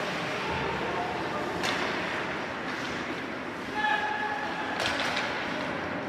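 Ice hockey rink ambience: steady arena noise with sharp clacks of stick, puck or boards about 1.7 s and 5 s in, and a brief held tone just before 4 s.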